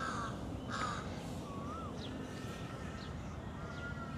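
Crows cawing, two harsh calls in the first second, with other birds' short chirps and whistles over a steady low background rumble.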